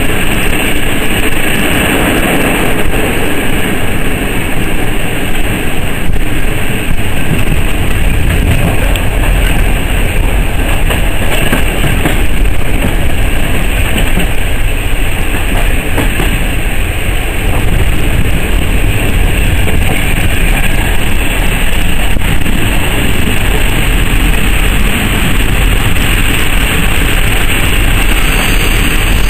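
Passenger train coach running at speed: a steady loud rumble of steel wheels on rail, with an occasional click over rail joints.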